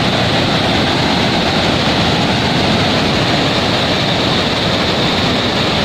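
Waterfall roaring as a loud, steady rush of falling water.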